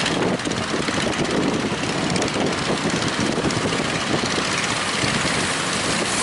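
Strong wind buffeting the microphone over breaking waves, a steady, loud roar.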